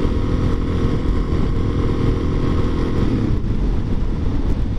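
Motorcycle engine running while riding, with a low rumble under it. About three seconds in the steady engine note gives way to a rougher, unpitched rumble.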